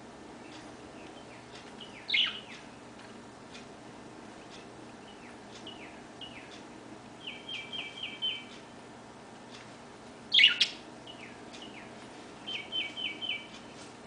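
Songbirds calling: two loud down-slurred calls, about two seconds in and again past ten seconds, and two quick runs of four or five short chip notes. Faint scattered ticks are heard between them.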